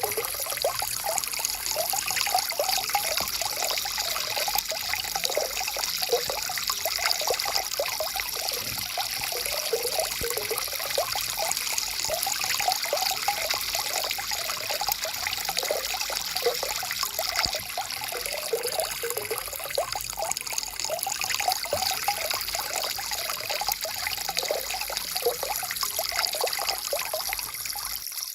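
Shallow stream water flowing and trickling over stones, with steady splashing and gurgling.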